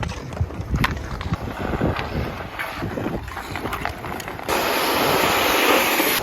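Wind buffeting the microphone, a gusty low rumble with scattered knocks; about four and a half seconds in it changes abruptly to a steadier hiss.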